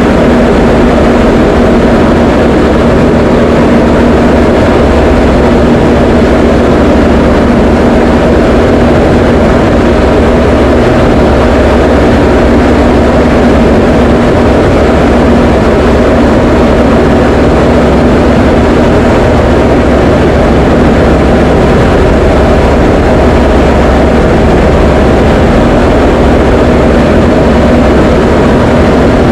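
Diamond DA20 light aircraft's piston engine and propeller in steady flight: a loud, unchanging drone with a constant hum, the power setting held steady.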